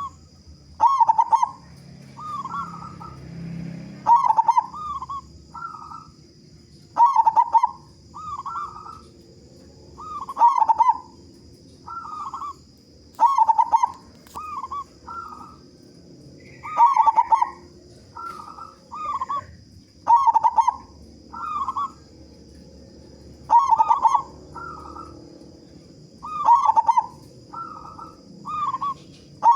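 Local zebra dove (perkutut) cooing its song: a loud phrase, one strong note followed by two or three softer notes, repeated about every three seconds.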